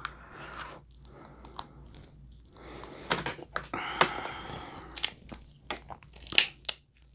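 Close-miked eating of seafood boil: chewing with several sharp crunches and cracks spread through the stretch.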